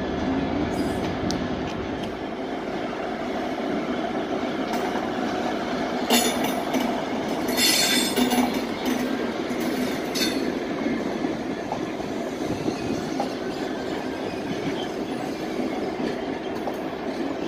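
Train moving through a railway station, a steady running noise from wheels and rails. Brief high-pitched squeals of wheels on rail come three times, between about six and ten seconds in.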